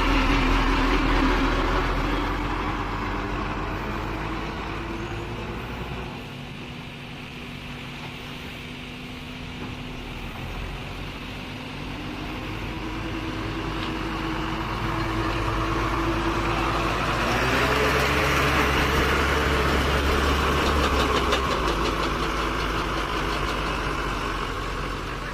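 Diesel engine of a JCB backhoe loader working: it drops to a lower, quieter speed about six seconds in, then revs up again past the middle and holds high before easing off near the end.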